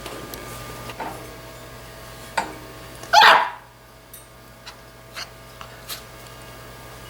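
Five-week-old Labrador retriever puppy giving one bark about three seconds in, with a few light clicks and knocks around it.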